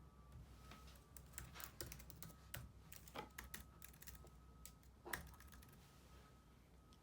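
Faint typing on a computer keyboard: a quick, irregular run of key clicks lasting about four seconds, ending with one louder click about five seconds in.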